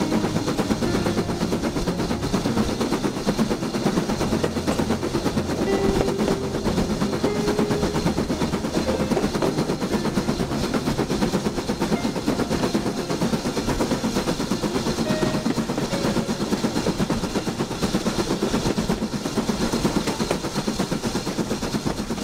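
Miniature railway train running along the track: a steady, rapid clatter of wheels on rail.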